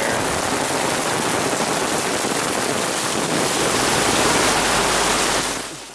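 Heavy downpour with stormwater running off: a loud, dense, steady hiss of rain and rushing water, swelling slightly and then fading out just before the end.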